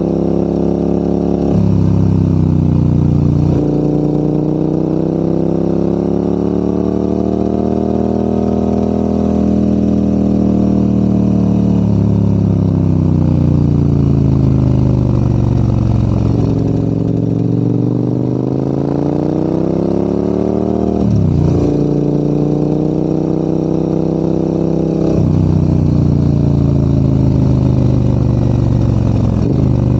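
Maxi-enduro adventure motorcycle engine pulling uphill under load. Its pitch rises and falls smoothly as the bike speeds up and eases off, with several sudden jumps in pitch where the rider changes gear.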